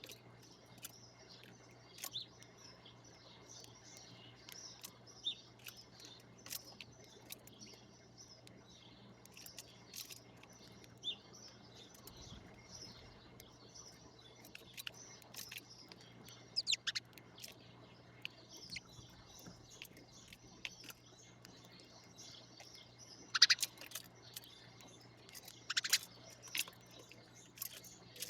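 Birds chirping: a steady run of short, high chirps, with a few louder calls in the second half.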